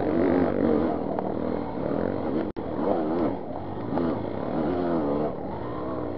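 Two-stroke engine of a 1995 Yamaha DT 200 trail bike, its revs rising and falling again and again as the throttle is worked on and off. The sound cuts out for an instant about two and a half seconds in.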